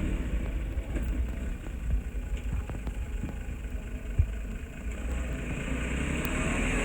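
Diesel engine of heavy earth-moving equipment running at a low rumble, with scattered clanks and one sharp knock about four seconds in. The engine grows louder toward the end.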